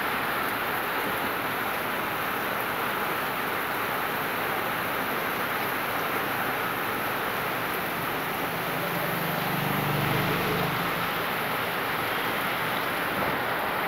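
Heavy rain pouring down, a steady dense hiss. A low hum rises briefly about nine to eleven seconds in.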